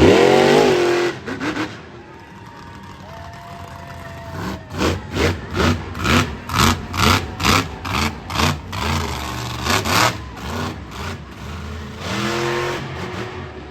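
Monster truck engine revving: a loud rev rising in pitch that cuts off about a second in, then a string of quick throttle blips, about two a second, and one more rev near the end.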